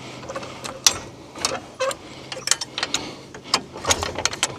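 Irregular metal clicks and knocks from work at a trailer hitch, over the faint steady hum of an idling tractor engine.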